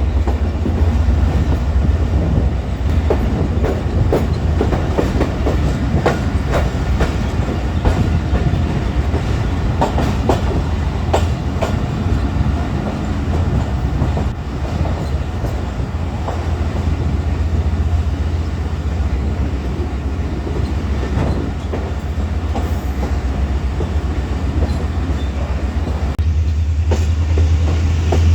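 Passenger train coaches running along the track: a heavy, steady rumble with irregular clacks of the wheels over the rails.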